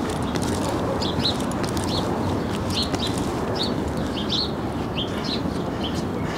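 Small birds chirping over and over, short quick chirps several times a second, over a steady rushing background noise.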